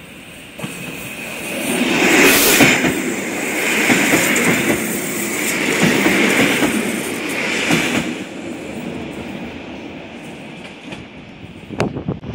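Electric multiple unit passing close by, the rush of its wheels on the rails swelling and easing in several waves about two seconds apart, then fading away. A few sharp clicks come near the end.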